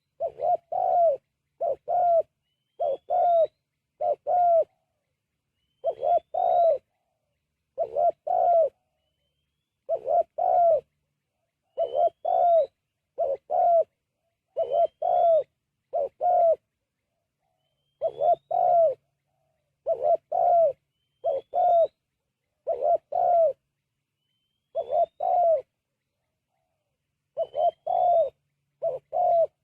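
Spotted dove (terkukur) cooing: groups of two or three low coos, repeated about every two seconds. A faint high rising note comes before some of the groups.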